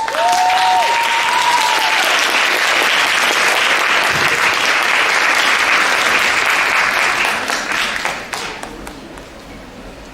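Audience applauding as the dance music ends, with two held cheering cries at the start; the applause dies away after about eight seconds.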